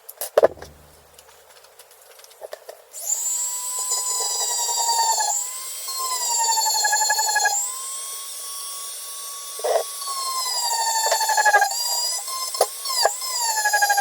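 Handheld power drill spinning a wire wheel against an engine valve to scrub off carbon. It starts about three seconds in, after a few clicks, and runs as a high whine whose pitch sags and recovers several times as the wheel is pressed on and eased off.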